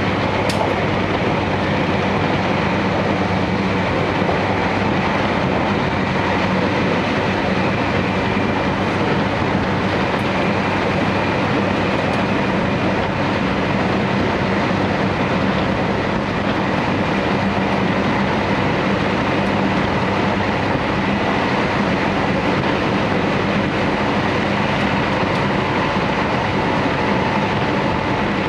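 Inside a JR Hokkaido Series 711 electric multiple unit running at a steady speed: an even rumble of wheels on rail with a steady low hum and no change in loudness.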